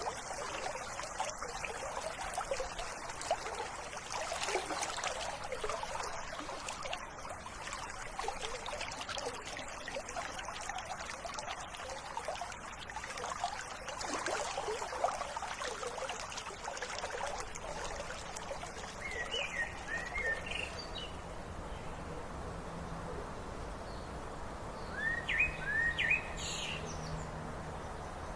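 A stream trickling and bubbling, with a bird singing short rising chirps twice in the second half.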